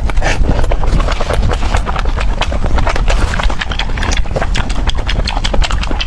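Close-miked chewing of chicken heads: wet crunching and rapid, irregular crackles as bones and cartilage are bitten through.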